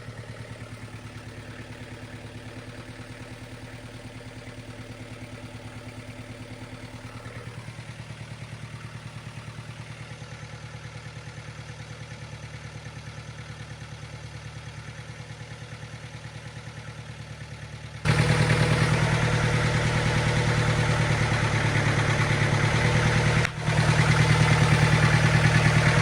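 Bobcat 7753 skid steer's diesel engine running steadily with the hydraulic drive engaged. About eighteen seconds in it suddenly becomes much louder and stays so, with a brief dip a few seconds later.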